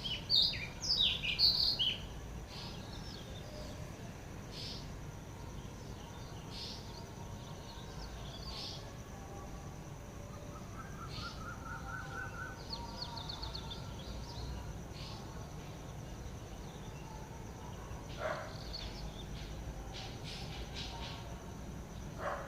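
Wild birds calling and chirping, with a loud burst of rapid chirps in the first two seconds, scattered short calls after, and a brief rising trill about halfway through, over a steady low background rumble.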